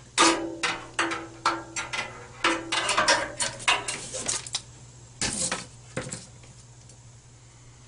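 Scrap metal and copper wire clinking and knocking as they are handled, a quick run of metallic clicks, some with a short ring. After a pause, two or three more knocks come about five to six seconds in.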